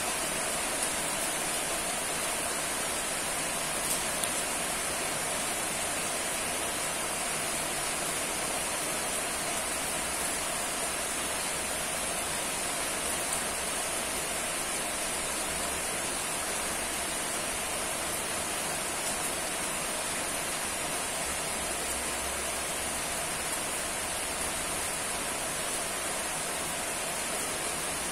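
Steady rain falling, an even hiss that holds without a break, with a couple of faint drip taps about four seconds in.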